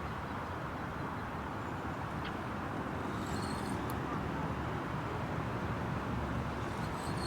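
Steady wind rumbling on the microphone outdoors, with a couple of short high chirps about three seconds in and near the end.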